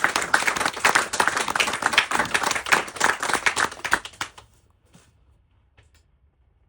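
Small audience applauding, the clapping stopping abruptly about four seconds in.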